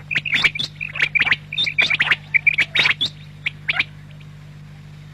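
Quail calling: a quick run of short, sharp notes that stops about four seconds in, over a steady low hum.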